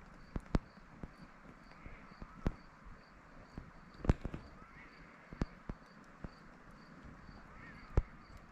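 An insect, likely a cricket, chirping steadily about two or three times a second, with irregular sharp clicks and knocks over it.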